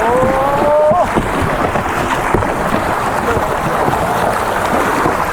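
River water rushing and splashing around a raft running a riffle, a steady loud wash with wind on the microphone. A short rising pitched tone, like a voice or a sung note, slides up in the first second.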